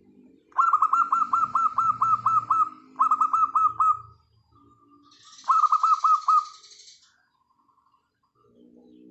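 Zebra dove (perkutut) cooing in three quick phrases of short falling notes, about five a second. A softer, lower cooing comes before and after. A brief hissy high sound overlays the third phrase.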